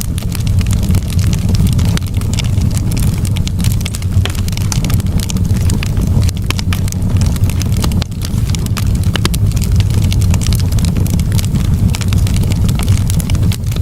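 Campfire burning, with frequent crackles and pops from the burning wood over a steady low rumble.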